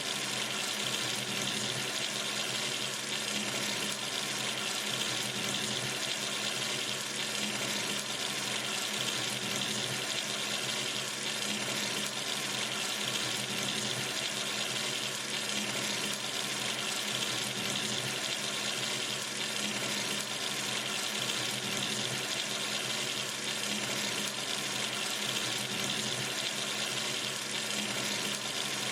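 Water running steadily from a sink tap, an even hiss with no change.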